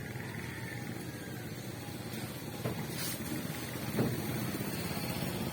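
A small engine running steadily, with a sharp click about three seconds in and a louder knock about a second later.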